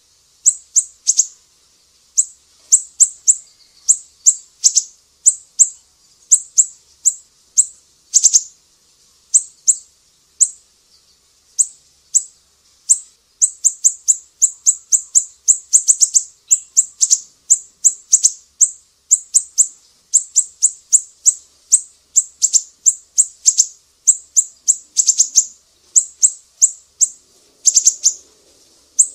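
Small songbirds giving rapid, high-pitched chip calls in quick clusters of three to six notes, the clusters repeating about once a second: a masteran song-training recording.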